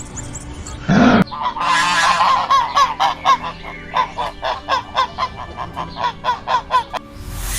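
A bird honking: a long run of short nasal calls, about two or three a second, in the manner of geese. A single louder, lower call comes just before it, about a second in.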